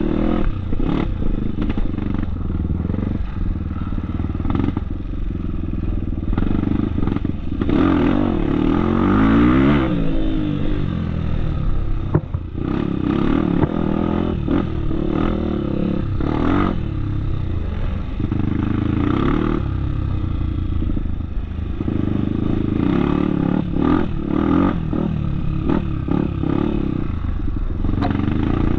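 Off-road trail motorcycle engine running under changing throttle, revving up and down, with repeated clattering knocks as it rides over rough trail.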